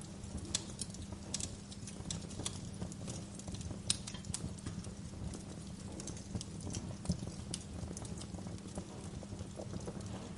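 Wood fire crackling, with irregular sharp pops, the loudest about four seconds in and another about seven seconds in, over a steady low rumble.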